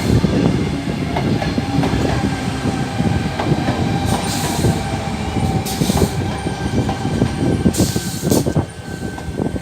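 Sydney Trains Tangara electric multiple unit rolling in alongside the platform, its wheels clattering on the rails over a faint steady whine. Short hisses come about four, six and eight seconds in.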